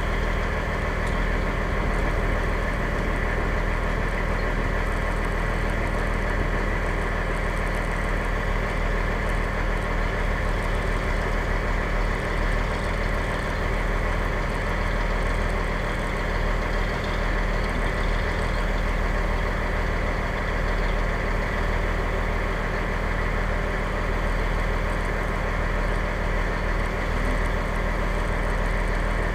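Fire engine's engine running with a steady, even drone, heard from inside the cab.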